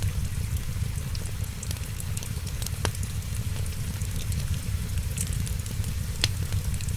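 Wood fire crackling in a fireplace, with many small ticks and two sharper pops, about three seconds in and near the end, over a steady low rumble and the hiss of rain.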